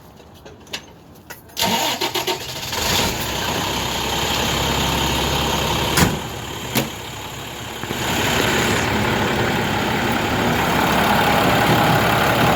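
International 4900's DT466E inline-six diesel cranking briefly and starting about a second and a half in, then running steadily at idle. Two sharp clicks come midway, and the engine gets a little louder about eight seconds in.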